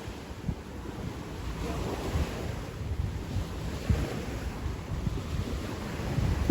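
Wind buffeting the microphone: a gusty low rumble that swells and eases.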